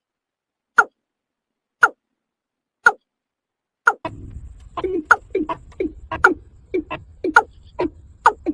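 Watercock (kora) calling: a single falling note about once a second, then from about four seconds in, quicker falling notes, three or four a second, over a low background noise.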